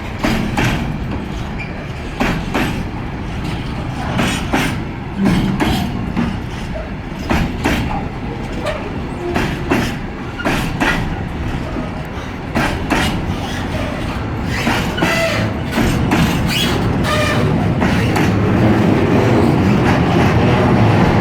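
Freight train wagons rolling slowly past, with irregular clicks and knocks of the wheels over the rail joints over a steady rumble. A few short wheel squeals come about two-thirds of the way through.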